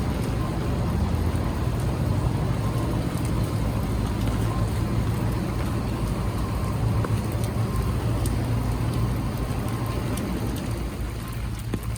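Low, steady rumble of road traffic on a rain-wet street, with rain pattering and dripping over it; the rumble eases a little near the end.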